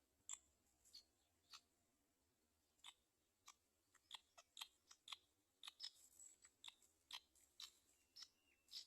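Faint, sharp clicks at an irregular pace, a few scattered at first and then several a second from about four seconds in.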